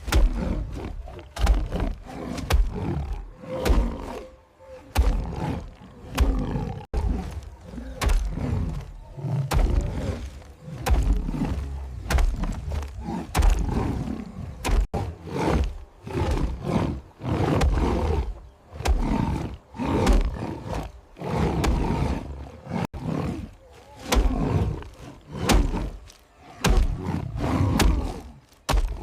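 Big cats roaring and snarling again and again, mixed with sudden thuds.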